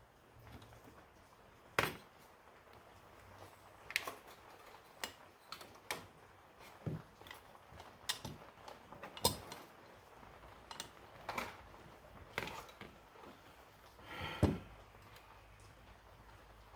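Irregular clicks, taps and clinks of small metal parts being handled as a Motorcraft 2100 carburetor is taken apart, with sharper knocks about two seconds in and near the end.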